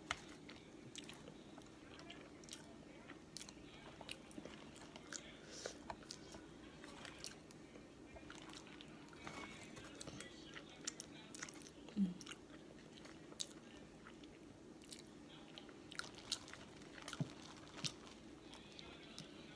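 Close-up mouth sounds of someone biting and chewing boiled seafood, with many small scattered clicks and cracks of shell over a faint steady hum. One louder knock comes about twelve seconds in.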